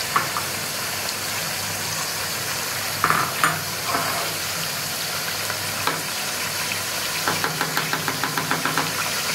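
Chicken frying in oil in a metal pot, a steady sizzle with a low hum beneath it. A perforated metal spoon clicks against the pot a few times, then scrapes in a quick run of strokes, about five a second, near the end as the spices are stirred in.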